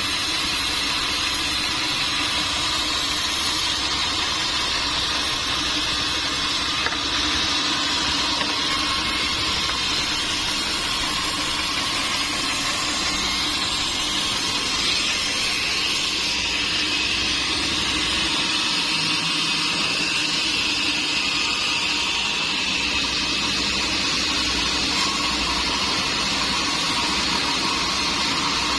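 Sawmill machinery running steadily: a constant mechanical noise with a high whine over a lower hum.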